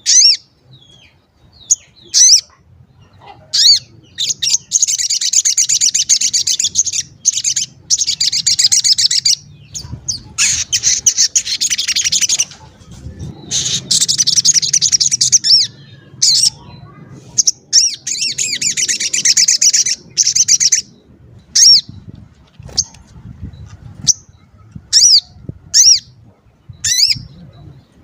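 A sogon bird singing its "cuit cuit" song: high-pitched rapid twittering trills of a few seconds each, broken by short gaps and single sharp chirps.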